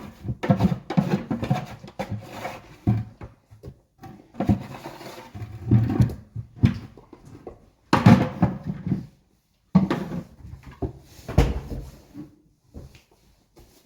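Irregular rustling, scraping and knocking of dry horse feed being scooped and mixed in feed buckets, with a few sharp clunks.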